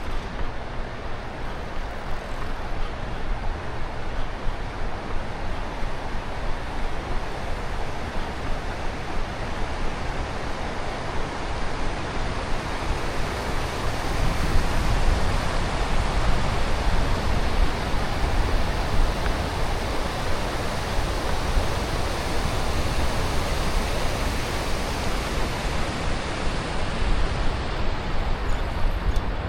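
Steady rushing noise with an uneven low rumble: wind buffeting an action camera's microphone while running, a little louder about halfway through.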